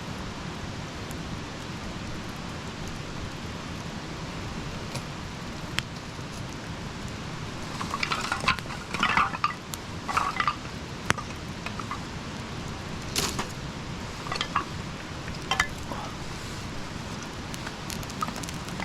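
Campfire burning: a steady hiss with a run of sharp crackles and pops from about eight seconds in until about sixteen seconds in.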